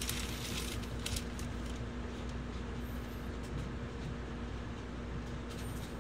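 Cabin noise of a 700 series Shinkansen running slowly alongside a station platform: a steady low rumble with a constant hum. A short hiss sounds right at the start, and faint clicks come now and then.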